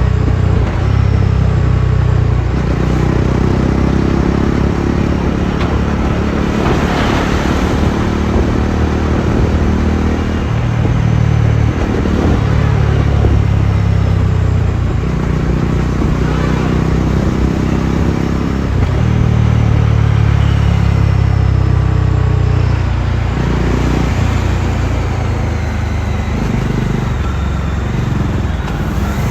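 Bajaj Dominar 400's single-cylinder engine and exhaust running under way, the note rising and falling as the bike accelerates and eases off, over wind and road noise. A brief surge of rushing noise comes about seven seconds in.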